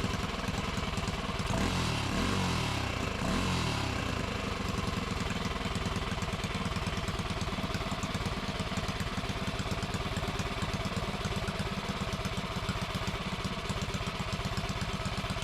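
Modified Predator 212 single-cylinder four-stroke engine running in after its first start. It revs up and down a few times in the first four seconds, then runs steadily.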